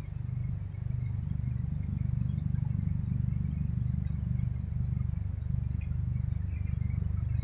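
Crickets chirping in an even rhythm, about two to three chirps a second, over a steady low hum.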